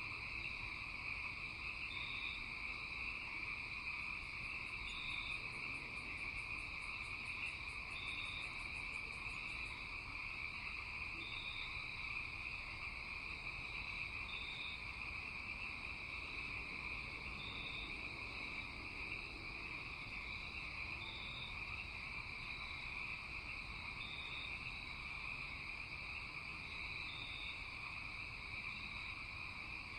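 Night chorus of insects and frogs: a steady high buzz with short high chirps repeating every second or two. About four seconds in, a very high, fast ticking trill joins for some six seconds.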